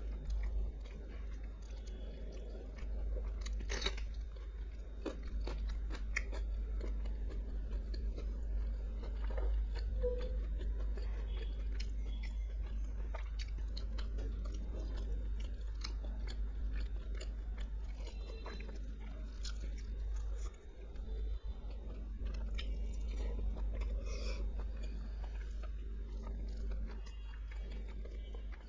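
A person chewing and biting food close to the microphone, with many short crunches and wet clicks scattered throughout, over a steady low hum.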